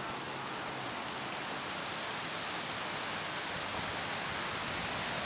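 A steady, even hiss of noise with no distinct events, creeping up very slightly in level.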